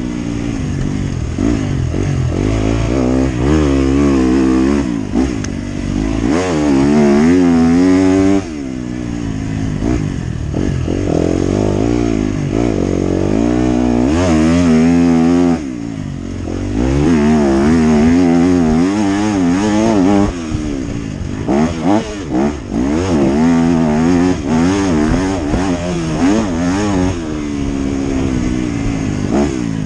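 Motocross bike engine being ridden hard, its revs climbing and falling again and again through throttle and gear changes. The throttle is shut off sharply about 8 and 15 seconds in.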